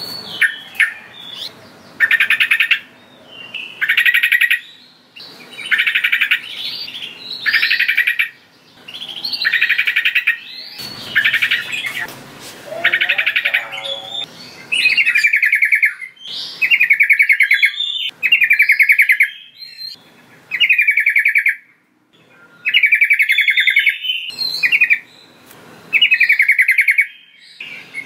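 Sooty-headed bulbul calling in short, loud phrases repeated every second and a half to two seconds. The phrases in the first half sound buzzy and rapidly pulsed; from about halfway they turn into clearer, gliding whistled notes.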